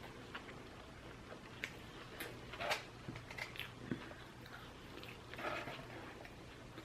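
Close-miked chewing and wet mouth smacks while eating sushi, heard as scattered soft clicks, the loudest about two and a half seconds in, over a faint steady hum.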